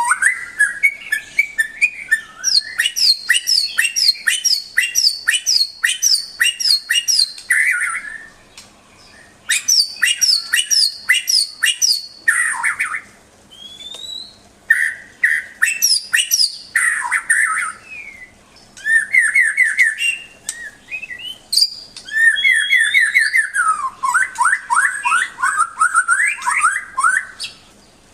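White-rumped shama (murai batu) singing a long, varied song: runs of quickly repeated notes, rising and falling whistles, and chattering phrases separated by short pauses.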